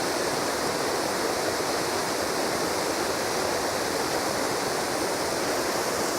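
Small waterfall cascading down limestone walls, a steady rush of falling water, at low flow before the spring runoff.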